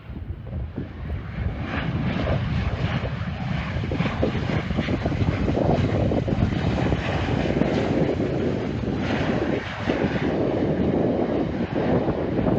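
Jet airliner engines, getting louder over the first two seconds, then holding a loud, steady rumble.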